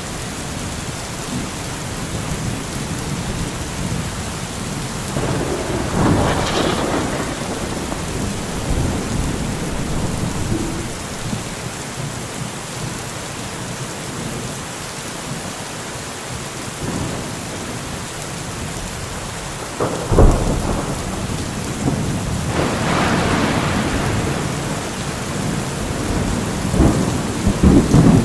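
Steady rain with thunder: a roll swells about six seconds in, and a sudden clap about two-thirds through is followed by a long rumble.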